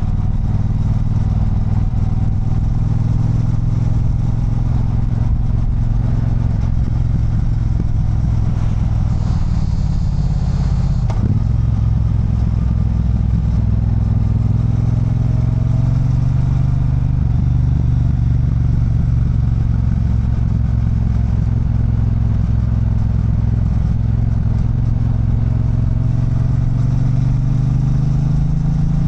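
Triumph Bonneville Bobber's 1200 cc parallel-twin engine running under way, its note falling and rising with the throttle and climbing near the end. A single sharp click comes about eleven seconds in.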